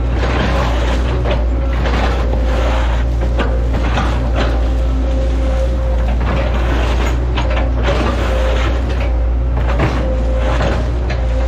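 Hitachi ZX110 excavator's diesel engine running steadily under load, with a steady whine over it. Irregular crunching knocks come every second or so as the machine works the palm trunks.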